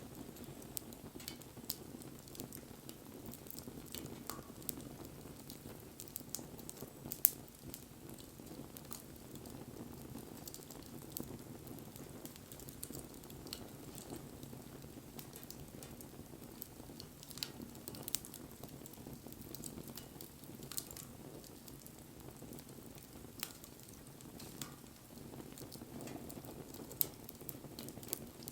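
Wood bonfire burning: a steady low rush from the flames with scattered sharp crackles and pops, the loudest pop about seven seconds in.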